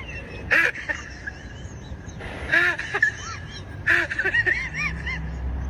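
Kitten mewing repeatedly: five or six short, high calls, each rising and then falling in pitch, spaced about a second apart.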